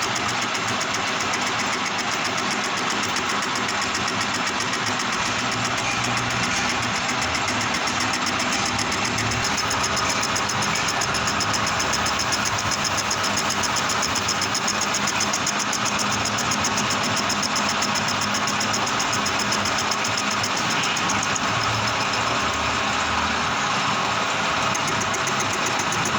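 Manual metal lathe running steadily, with a continuous mechanical noise that holds level throughout.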